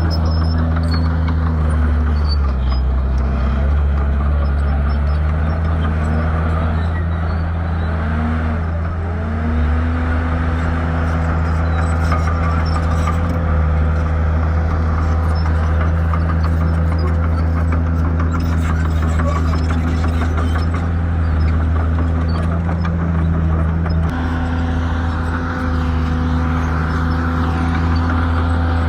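Shantui bulldozer's diesel engine running loud and steady. Its pitch dips and recovers several times in the first ten seconds, then holds level.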